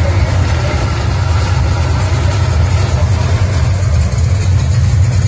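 Engine of a 1970s full-size Chevrolet donk running with a steady low rumble as the car rolls slowly past.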